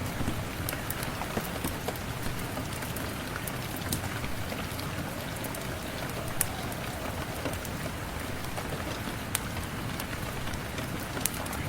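Steady rain falling on a surface, with scattered sharp ticks of individual drops.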